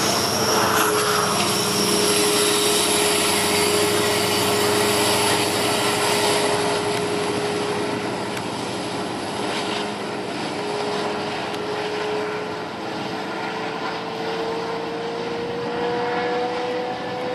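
Double-stack container freight train rolling past, a steady rumble of wheels on rail with a constant whine that rises slightly in pitch near the end.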